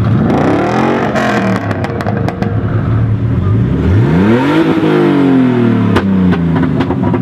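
Car engine idling and revved hard twice, the pitch climbing and falling back each time, with several sharp cracks from the exhaust in between.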